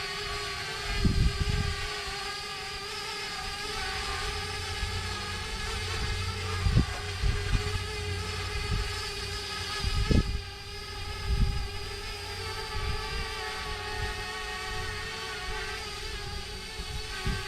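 Parrot Bebop 2 quadcopter's propellers and electric motors buzzing with a steady, high pitched whine as the drone flies, with a few gusts of wind rumbling on the microphone.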